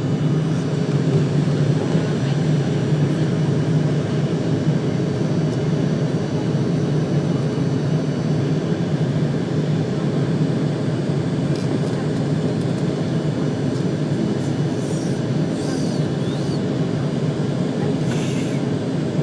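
Steady low rumble of jet engines and airflow heard inside an airliner cabin.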